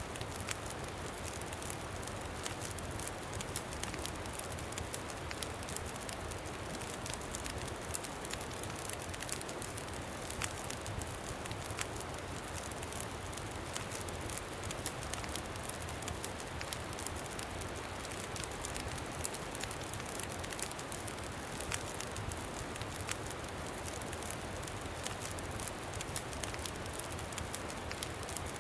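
Campfire crackling with many small, irregular pops and snaps over a steady low rumble of wind.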